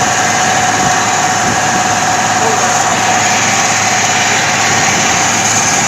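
Truck engine running steadily, with an even drone and a constant whine that neither rises nor falls.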